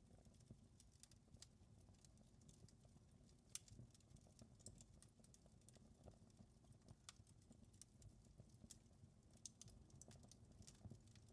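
Wood fire in a fireplace crackling faintly, with irregular sharp pops and clicks, one louder pop about three and a half seconds in, over a low steady rumble.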